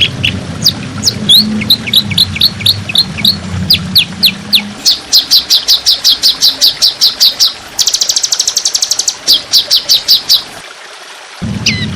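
Songbird song in the rapid 'tembakan' style: fast, repeated sharp chirps and down-slurred whistled notes, with a quick buzzy trill about eight seconds in. A low hum runs under the first few seconds and then drops away, and the song pauses briefly near the end.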